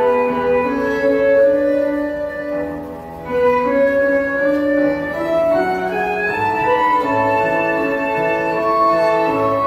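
Two violins playing a slow melody together in long held notes, with a short break between phrases about three seconds in.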